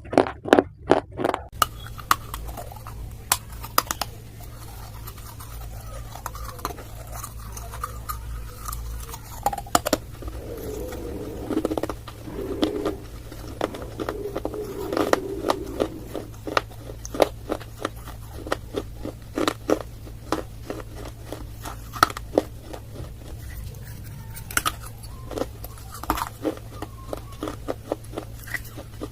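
Dry clay being bitten and chewed: a long run of sharp crunchy snaps, with a stretch of duller, muffled chewing in the middle.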